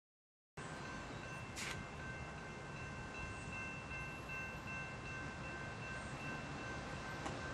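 Railroad grade-crossing warning bells ringing steadily over a low rumble as a train approaches; the sound cuts in abruptly about half a second in.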